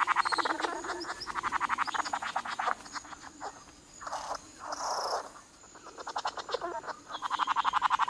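Male bowerbird giving a rapid, rattling, clicking call during his courtship display, about a dozen pulses a second in runs broken by short pauses, with one brief hiss midway.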